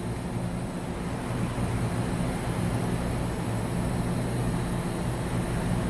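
Mazak HCN 4000-III horizontal machining center's Y axis traversing at 25% feed: a steady machine hum from the axis drive and ball screw, with the ball screw and thrust bearings sounding healthy.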